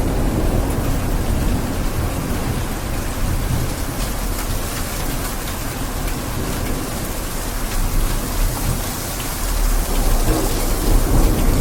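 Steady rain with a low rumble of thunder, swelling a little near the end.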